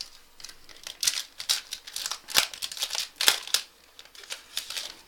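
Trading-card pack being opened: a quick run of crisp crackles and clicks from the wrapper and cards, loudest about two and a half and three and a half seconds in.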